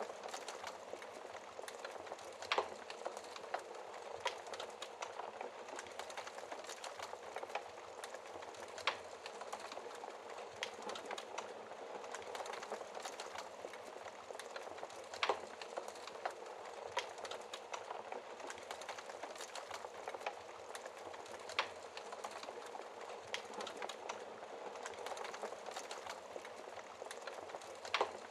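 Wood fire in a fireplace crackling: a steady hiss of burning with irregular sharp pops and snaps, a few louder ones every several seconds.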